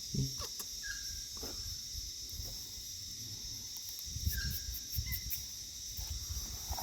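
Steady high-pitched chorus of insects chirring in the bush, with two short faint chirps about a second in and midway, and low rumbling noise on the microphone around the middle.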